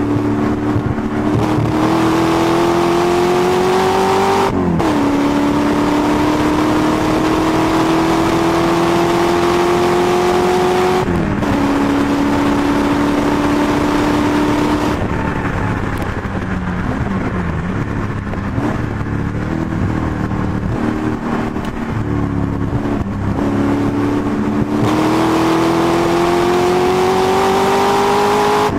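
Rover V8 engine of a 330 bhp MGB race car under hard acceleration, its pitch climbing steadily in each gear and dropping sharply at upshifts about five and eleven seconds in. From about fifteen seconds the revs fall back and hover lower and unsteady, then climb again under full throttle near the end.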